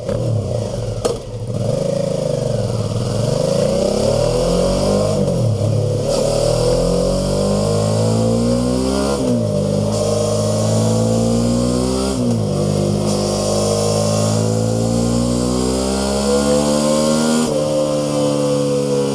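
Suzuki DL V-Strom 650's V-twin engine running through a Mivv Oval carbon-cap exhaust, mostly at a steady idle. The engine rises in pitch in a couple of short throttle blips partway through.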